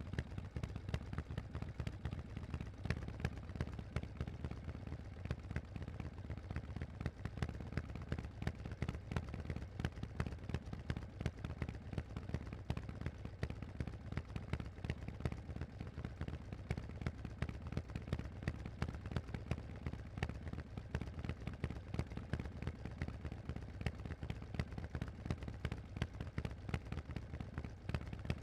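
Harley-Davidson Forty-Eight's air-cooled 1200 cc V-twin running steadily through Vance & Hines aftermarket exhaust pipes, a dense, even stream of exhaust pulses with a heavy low end.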